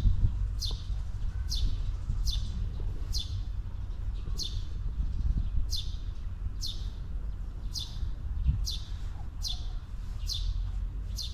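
A bird repeating a short, high chirp that sweeps downward, over and over at an even pace a little more than once a second, over a steady low rumble.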